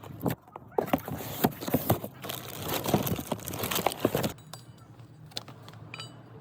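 Tools and metal parts clattering: a rapid run of knocks and clinks for about four seconds, then only a few faint clinks.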